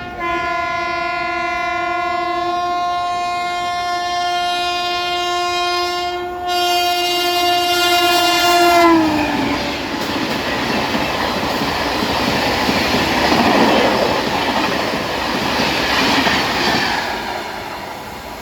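Shatabdi Express train passing at speed. Its locomotive horn sounds one long, loud blast whose pitch drops about nine seconds in as the engine goes by. The rush and rattle of the coaches follows, fading near the end.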